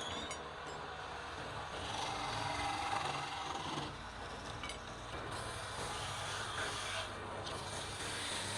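Palm wood being worked on a lathe: a steady scraping rub against the spinning wood over a low, steady hum.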